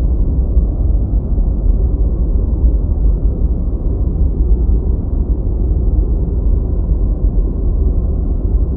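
Steady deep white noise, a low rumbling hiss with nearly all its energy in the bass and nothing above the low mids, unchanging throughout.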